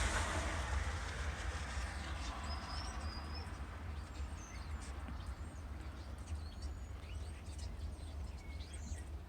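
A flock of small birds chirping, with scattered short, high chirps and little gliding whistles. Underneath is a steady low rumble, and a passing vehicle's noise fades out over the first second or two.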